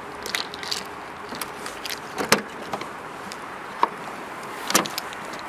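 The trunk of a 1999 Volkswagen Passat B5 being unlocked with the key and its latch released and lid opened: a few sharp mechanical clicks, with a louder knock near the end.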